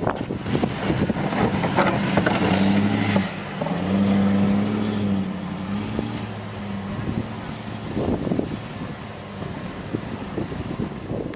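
Car engine running close by, its pitch rising and falling a few seconds in as it is revved, then fading.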